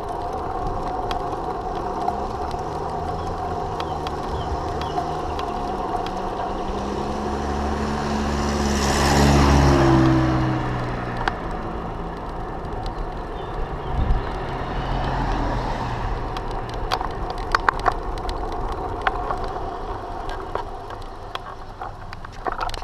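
Steady road and wind noise while riding a bicycle in traffic. A motor vehicle passes close by about nine seconds in, its engine swelling and fading, and scattered sharp ticks follow near the end.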